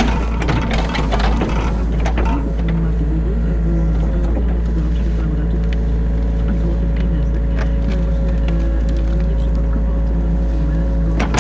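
New Holland E50.2 mini excavator heard from inside the cab: its diesel engine drones steadily under load while a whine wavers up and down in pitch as the hydraulics work the arm and bucket. A burst of rattling clatter comes at the start and again near the end.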